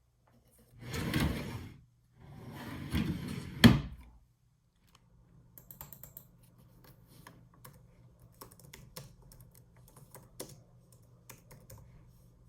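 Two rushing scrapes, the second ending in a sharp knock, then a run of light irregular clicks of typing on a computer keyboard over a faint low hum.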